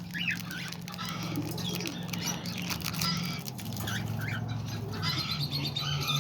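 Mixed flock of small parrots (parakeets, lovebirds and cockatiels) chirping and chattering, many short calls overlapping, over a steady low hum.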